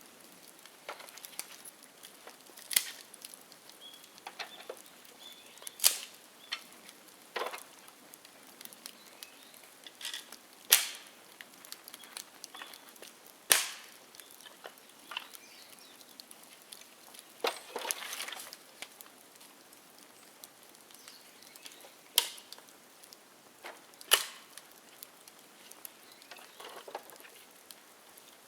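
Bonfire of dry bamboo crackling, with sharp loud pops every few seconds at irregular intervals and a longer burst of crackling a little past halfway.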